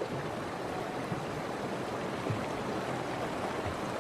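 Fast-flowing river water rushing steadily, with a few faint low thuds.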